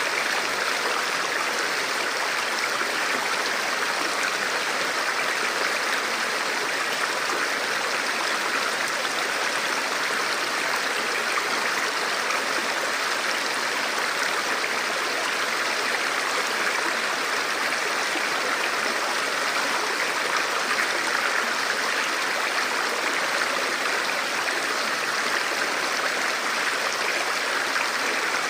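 A forest river or stream flowing, a steady, even rush of water with no breaks or changes.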